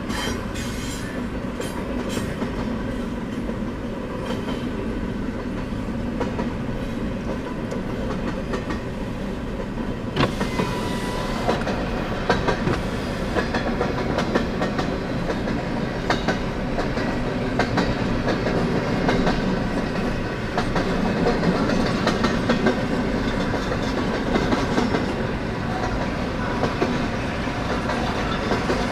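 CN freight train rolling past, the cars' steel wheels clicking and clattering over the rail joints with a steady rumble.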